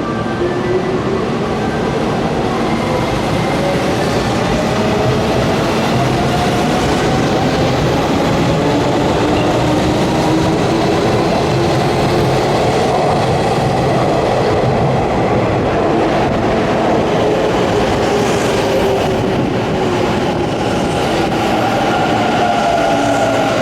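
Hanshin electric trains moving through the station platform: traction motor whine that glides up in pitch over the first half and down again later, over a steady rumble of wheels on the rails.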